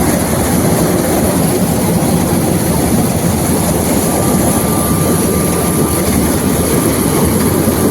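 Sonalika Tiger tractor's diesel engine running steadily on the move, mixed with heavy wind rumble on the microphone.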